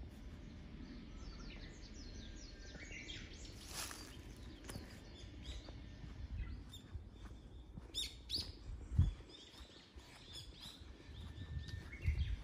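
Small songbirds chirping and calling in short, repeated notes over a low, steady rumble, with a brief dull thump about nine seconds in.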